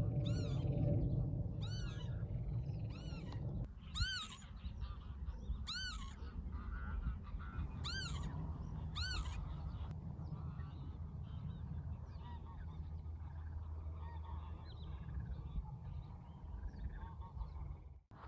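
A bird gives loud, nasal, honking calls, about seven of them spread over the first ten seconds, with fainter calls afterwards, over a steady low wind rumble on the microphone.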